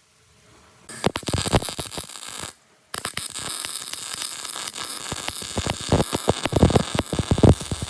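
Metal fabrication noise: scraping with sharp knocks about a second in, then after a short break a longer, denser stretch of rasping noise full of sharp metallic knocks.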